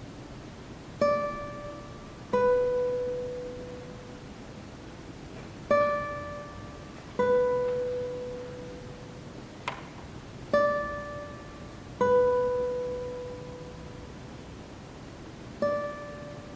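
Classical guitars playing a sparse repeated figure: a single plucked note followed by a lower one, each left to ring, the pair coming back about every four and a half seconds. A sharp tap is heard once near the middle.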